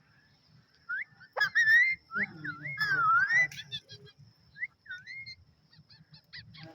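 Pet parrot whistling: a string of short, clear rising and swooping whistles, with a longer whistle that dips and climbs again in the middle.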